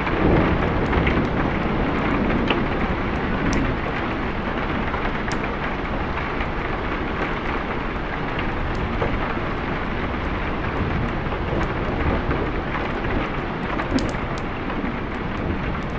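Steady heavy rain with a low rumble of thunder dying away in the first second, and scattered sharp ticks over the hiss of the rain.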